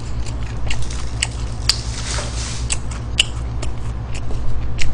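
Close-miked chewing of McDonald's french fries, with scattered crisp clicks and a short rustle of the wrapper paper about two seconds in as fries are picked up. A steady low hum runs underneath.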